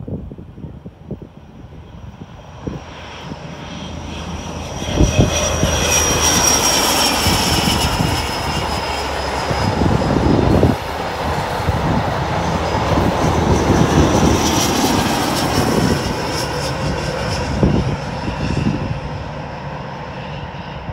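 InterCity 125 high-speed diesel train passing at speed, with power cars at both ends: engine noise and a high whine that drops in pitch as it goes by, over the knock of wheels on rail joints. It builds over the first few seconds, is loudest from about five seconds in, and fades as the train runs away.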